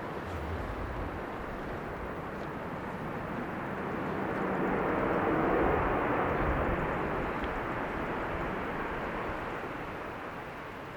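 Airliner passing, its engine noise swelling to a peak about halfway through and then fading away.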